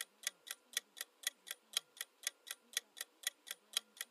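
Countdown timer sound effect: a clock ticking steadily, about four ticks a second.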